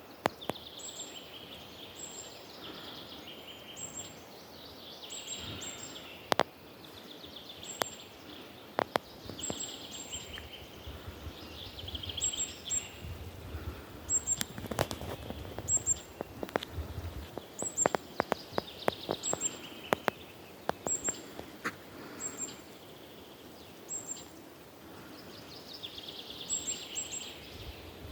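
Woodland birdsong: bursts of song every few seconds, over a thin high chirp repeated about once a second. Scattered sharp clicks and cracks, busiest around the middle.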